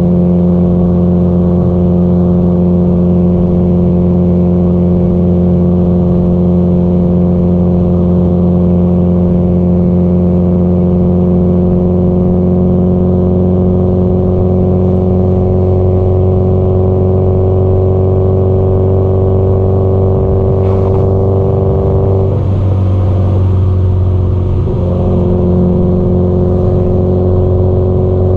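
Subaru Impreza GDB-E's turbocharged flat-four engine and exhaust running steadily at cruise, pitch creeping slightly upward. About three-quarters of the way in the tone breaks up and dips briefly, then settles back to the same steady drone.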